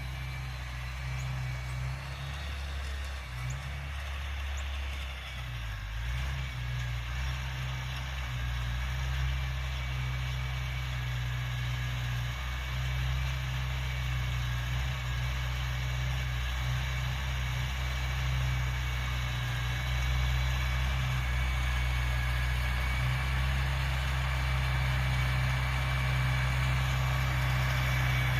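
1971 International Cub tractor's four-cylinder gasoline engine running steadily, growing gradually louder.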